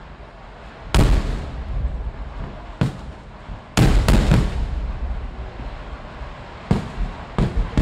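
Fireworks going off in a string of loud, sharp bangs, each with an echoing tail, as aerial shells burst into showers of sparks. The heaviest cluster comes about four seconds in, and a quicker run of bangs follows near the end.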